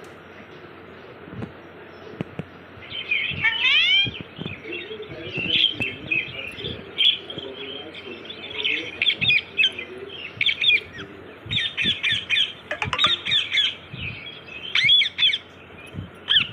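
Pet parrot calling: quick high squawks and chirps, some sweeping upward, coming in rapid clusters from about three seconds in.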